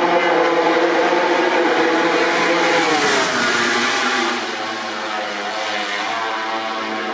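MotoGP racing motorcycle engine running at high revs and passing; its pitch drops and it gets a little quieter about four seconds in as it goes by.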